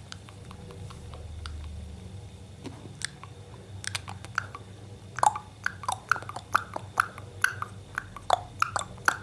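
Parrot making a run of short, sharp clicks, about two a second, from about five seconds in, after a few fainter scattered clicks.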